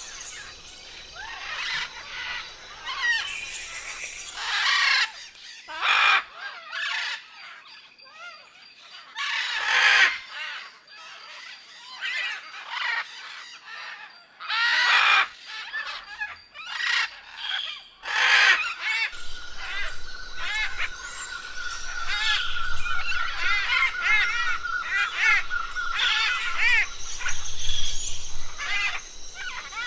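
Several wild forest birds calling: loud harsh squawks and shorter calls every second or two. About two-thirds of the way in, one bird starts a fast run of repeated notes on a single pitch that lasts several seconds.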